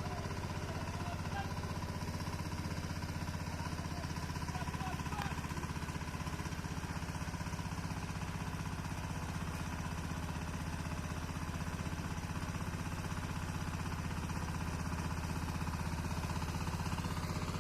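Small tractor's engine running steadily, a low note with a rapid, even beat that holds unchanged.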